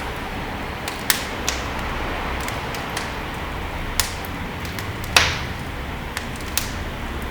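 Wood fire burning in a fireplace: a steady hiss of flames with scattered sharp crackles and pops from the burning logs, the loudest pop about five seconds in.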